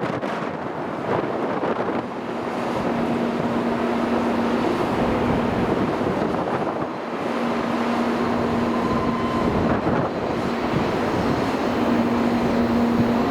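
Sanyo Shinkansen train running along the platform: a steady loud rushing noise, with a low hum that comes and goes three times.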